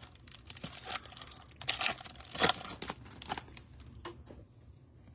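A trading card pack's foil wrapper being torn open and crinkled, in a run of crackling rips with the loudest tear about two and a half seconds in, fading out after about three and a half seconds.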